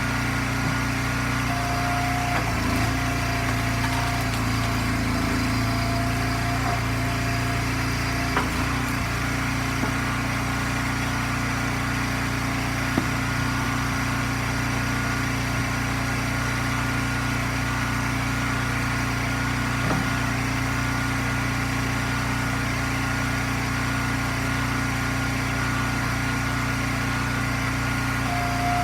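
Eastonmade firewood splitter's gasoline engine running steadily, with a higher whine for several seconds near the start and a few faint sharp knocks.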